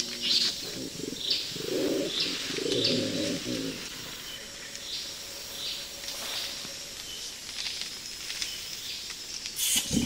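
Rainforest birds calling: short high chirps repeating every second or so, with two low cooing calls about two and three seconds in.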